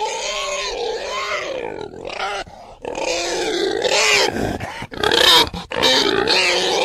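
Pig squealing in long wavering cries, broken by a few short pauses.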